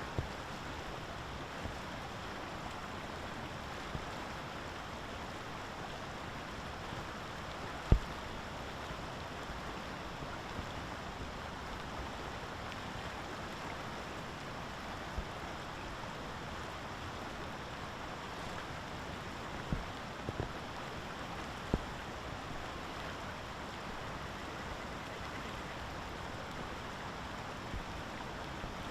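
Steady hiss of rain, with a few sharp ticks scattered through it, the loudest about eight seconds in.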